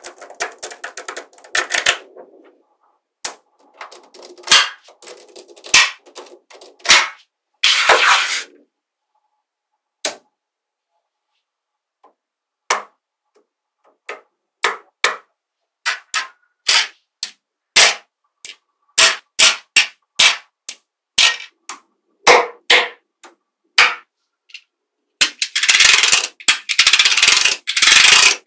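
Small magnetic balls snapping together with sharp clicks. Quick rattling clusters come in the first eight seconds, then single clicks about once a second, then a dense run of rattling clicks near the end.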